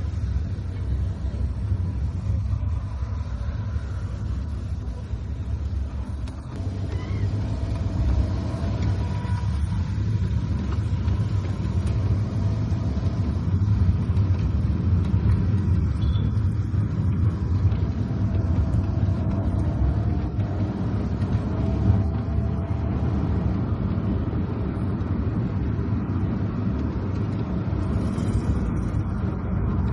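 Steady low rumble of a car driving on wet roads: engine and tyre noise, slightly louder after about seven seconds.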